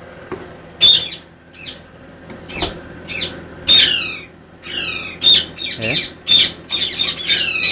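Birds squawking: a string of loud, harsh calls, each sliding down in pitch, spaced about a second apart at first and coming faster and overlapping from about five seconds in.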